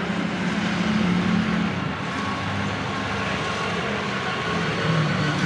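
Steady road traffic noise with the low hum of vehicle engines running.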